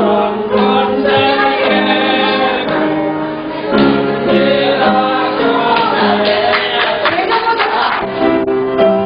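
A group of voices singing a Christian praise song, the notes held and moving from pitch to pitch in a slow melody.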